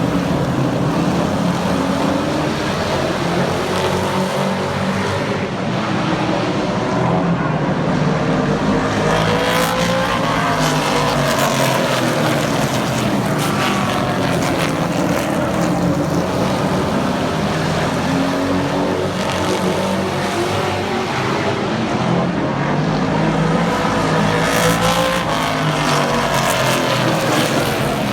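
Several super truck race engines running hard at once, their pitch rising and falling over and over as the trucks come by and pull away around the track.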